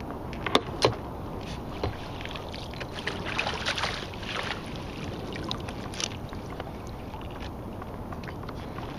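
Kayak on the water: two sharp knocks just under a second in, then a stretch of splashing and sloshing around the middle, over a steady background of water and wind noise.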